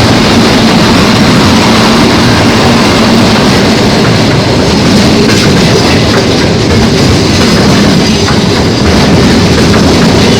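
Train moving along the platform close by: a loud, steady rumble of wheels and railcars.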